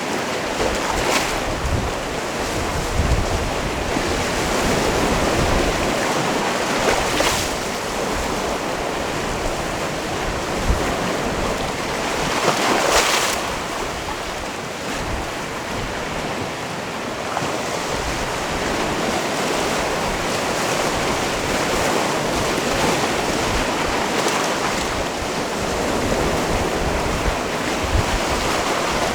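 Sea waves washing onto a rocky shore: a continuous wash with stronger surges about a second in, around seven seconds and around thirteen seconds.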